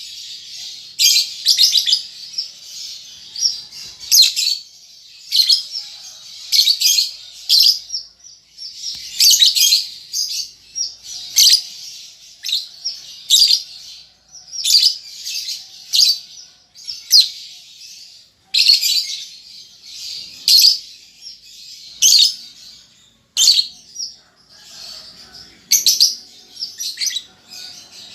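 Young lovebirds chattering: irregular bursts of shrill, high-pitched chirps and squeaky chatter, some strings running on for a second or two, others short sharp calls with brief pauses between.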